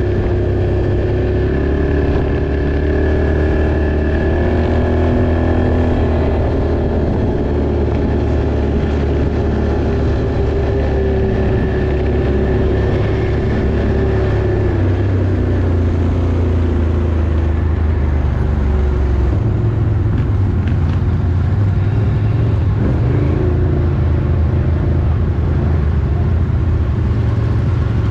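Off-road vehicle engine running under way, its pitch rising and falling as it works, with a steady high whine through the first half.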